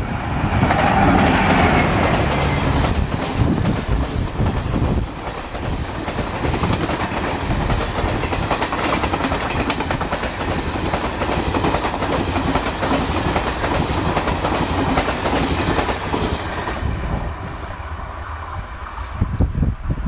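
Train passing close by at speed, its wheels clattering rapidly over the rail joints, the clatter easing off after about 17 seconds.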